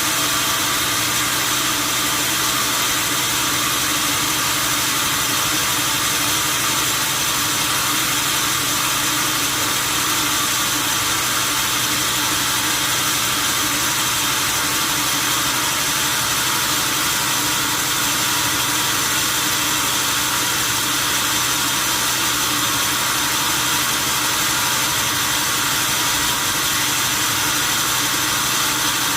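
Steady machine noise that never changes: a loud hiss with several constant hum tones beneath it.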